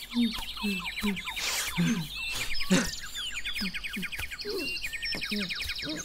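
Birds chirping, with fast trills of high chirps over scattered lower calls.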